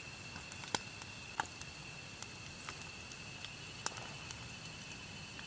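Eel frying in hot oil: sharp, irregular pops and crackles of spattering oil, a few each second, over a faint steady hiss.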